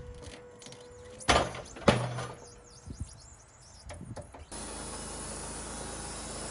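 Sawmill work: a steady whine that stops about a second in, two loud knocks about half a second apart, then a steady even rushing noise that starts abruptly past the middle and holds.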